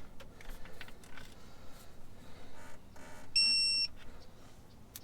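A single electronic beep, one steady high tone lasting about half a second, a little over three seconds in, typical of a digital torque wrench signalling that its set torque has been reached. Faint clicks and tool handling around it.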